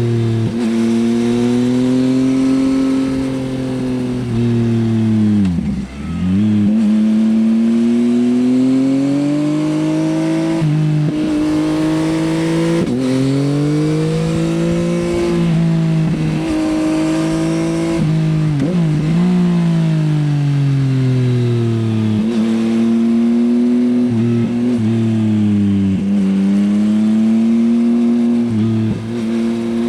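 2024 Yamaha XSR900's 890 cc CP3 inline-three through an Akrapovič Racing Line exhaust, ridden hard. The engine note climbs under acceleration and drops sharply at each gear change, every three or four seconds, with one deeper drop and recovery about six seconds in.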